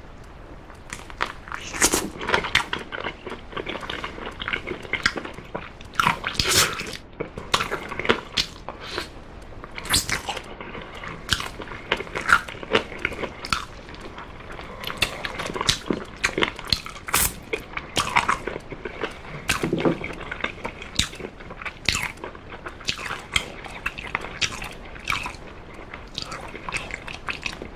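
Close-miked chewing and biting on an oven-baked chicken drumstick coated in sauce, with many sharp, wet mouth clicks and smacks at an uneven pace.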